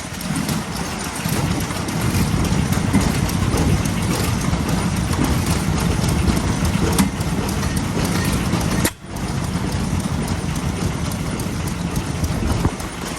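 Old single-cylinder stationary engines running with a rhythmic put-put beat. The sound breaks off briefly about nine seconds in.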